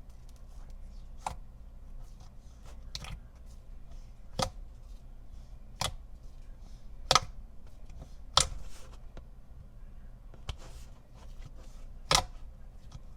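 Glossy slime being handled, giving a sharp clicking pop about every second and a half.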